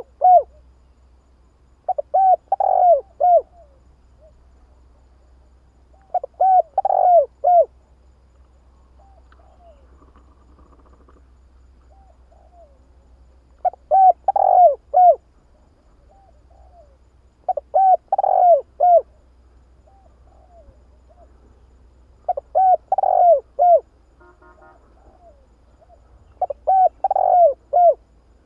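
Spotted dove cooing: six repeated phrases, each a quick run of several coo notes lasting about a second and a half, coming every four to five seconds with a longer pause in the middle. A faint steady low hum lies underneath.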